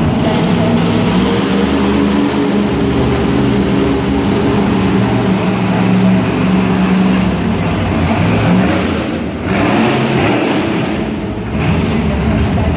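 Monster truck's big supercharged V8 running hard with heavy noise and throttle changes, easing off briefly twice near the end.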